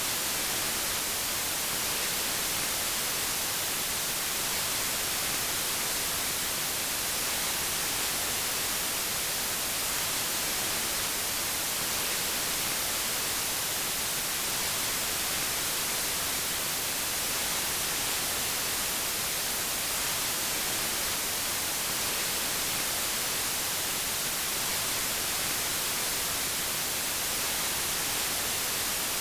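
Steady synthetic white noise: an even hiss across all pitches, brightest in the highs, with no change at all.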